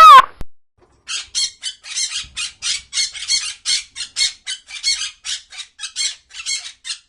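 A loud, wavering animal call cuts off just after the start. About a second later a bird starts a fast run of short, rasping squawks, about four a second, which stops just before the end.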